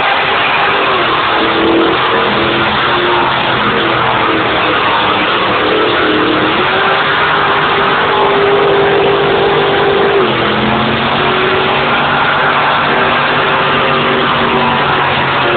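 Car engine held at high revs during a tyre-smoking burnout, its pitch stepping up and down several times over the steady noise of spinning tyres.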